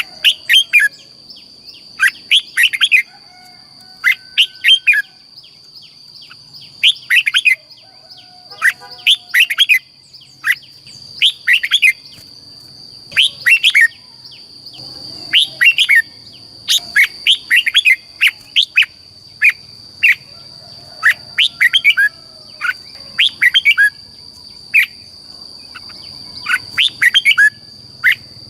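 Red-whiskered bulbul singing its phrases of quick, clear, descending whistled notes, repeated every second or two, in the southern-style song used to train young bulbuls and excite caged birds. A steady high-pitched tone runs underneath.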